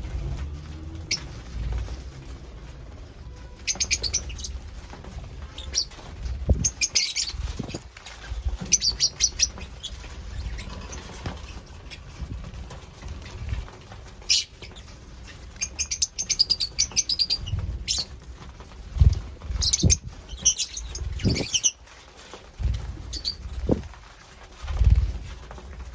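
Lovebirds chirping in short high-pitched clusters every few seconds, with scattered low thumps and rustling as they move about.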